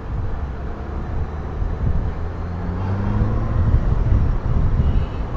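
Honda Gold Wing motorcycle engine running at low speed in slow, jammed city traffic, with a low road and traffic rumble around it. The engine note rises a little about halfway through as the bike picks up speed.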